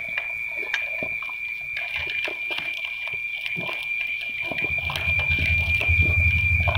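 Coconut coir burning in a fire, crackling with many small irregular pops over a steady high whistle. A low rumble comes in about four and a half seconds in.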